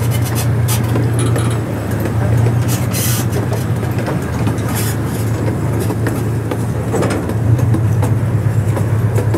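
Safari ride train running, heard from on board: a steady low engine drone with the noise of the moving cars and scattered light clicks and rattles.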